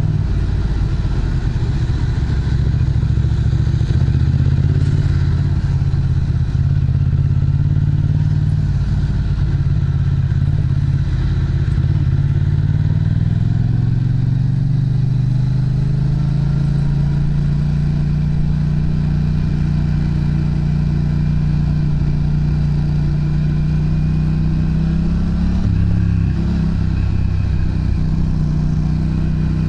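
Yamaha MT-07's parallel-twin engine running through an aftermarket Pranas muffler. Its note holds steady, then rises slowly in pitch about halfway through and holds at the higher pitch.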